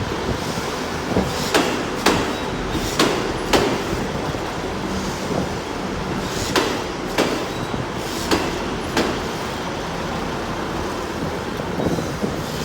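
Class 158 diesel multiple unit running slowly into a station, its engine humming over a steady rumble. Its wheels clack over the rail joints in pairs, a pair every second or so through the first nine seconds.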